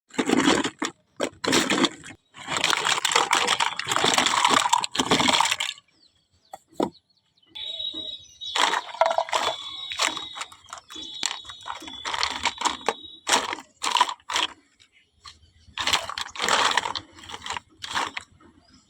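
Toy packaging being handled and opened: bursts of crinkling and tearing plastic and cardboard with clicks and taps, the longest and loudest stretch a few seconds in. A thin high tone sounds for several seconds midway.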